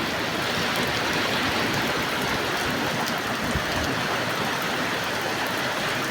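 Heavy rain pouring down in a steady, dense hiss, with a few faint drip ticks.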